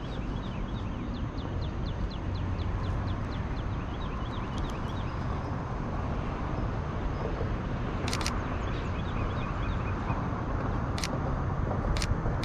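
Steady low outdoor rumble, with a bird chirping rapidly, about five chirps a second, over the first five seconds. A few sharp camera shutter clicks come through: two in quick succession a little past the middle, then single clicks near the end.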